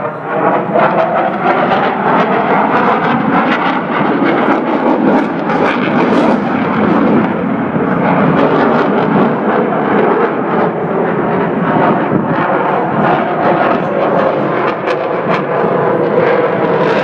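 Aircraft engines running loud and steady as a plane flies over, a dense rushing noise whose faint tones slowly shift in pitch.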